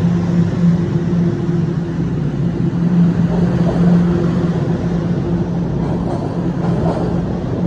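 TTC Line 1 subway train (Toronto Rocket) running in the station, a steady low hum over rumbling noise. A few clicks of the wheels on rail joints come in near the end.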